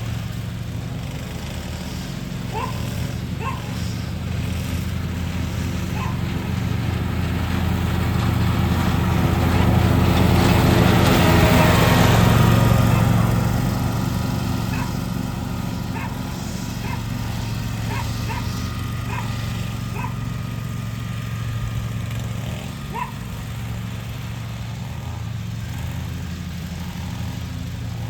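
Lawn mower engine running steadily, getting louder about a third of the way in as it comes close and then easing off again. A dog barks in short yaps now and then.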